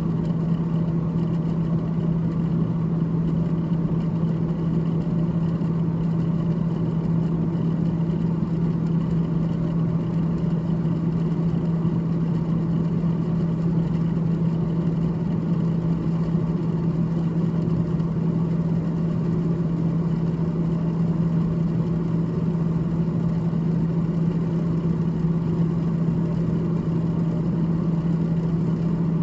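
Freezer fan of a GE GTH18XCTZRBB refrigerator running steadily: a constant low hum with a whirring rush of air under it.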